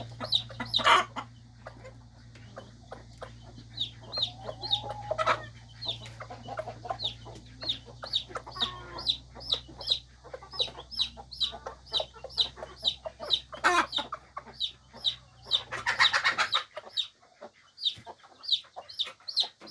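Cheonggye chicks peeping steadily, several short high peeps a second, with lower clucks from a hen among them. A steady low hum underneath stops near the end, and a few brief louder noisy bursts break in.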